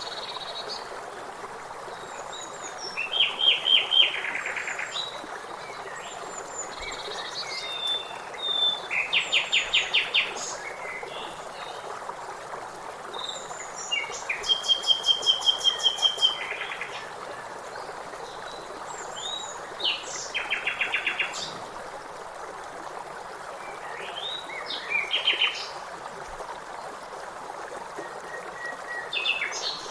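Songbirds singing outdoors: short phrases of rapid repeated chirping notes about every five seconds, over a steady rushing background hiss.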